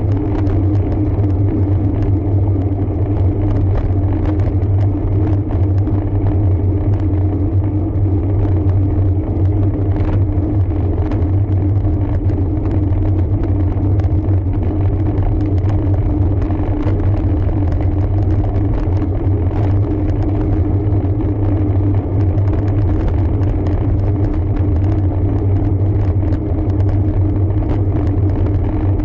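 Steady, loud rumble of road and wind noise picked up by a camera riding on a road bike, with scattered small ticks.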